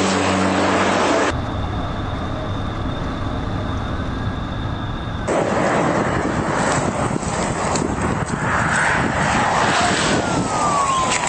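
Steady vehicle noise from police pursuit footage at freeway speed. Its character changes abruptly twice as the footage cuts between recordings, and a falling tone sounds near the end.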